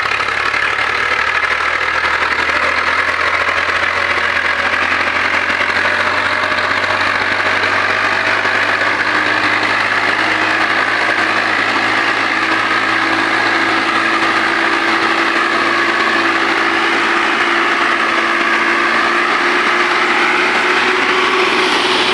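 Diesel tractor engines running steadily and loudly under load during a pulling contest, the drone drifting only slightly in pitch.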